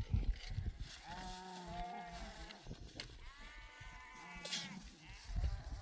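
Livestock bleating: two drawn-out calls, one about a second in and a second, higher call about three seconds in, with low rumbling and knocks near the start and end.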